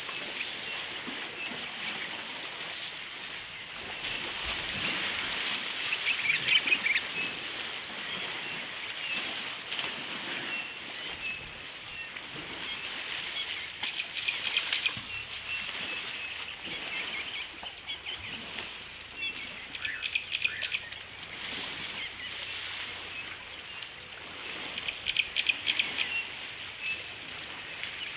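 Birds chirping in short bursts every few seconds over a steady outdoor background hiss, with the loudest bursts about a quarter of the way in and near the end.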